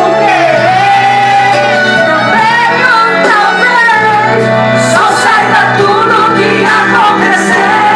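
Live worship song: a voice singing a continuous, sliding melody over held low chords from keyboard or band accompaniment.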